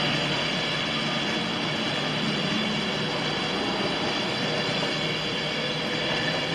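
Train running steadily with a low hum under an even rushing noise.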